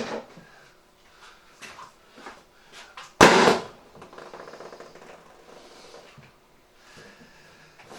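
A PVC scary-eye bird-deterrent balloon bursting with one sudden loud bang about three seconds in, after a few faint handling clicks and rustles.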